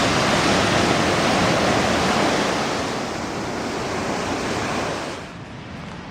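Ocean surf rushing onto a beach, loud at first, easing off from about halfway and dropping away sharply near the end as the wave's wash dies down.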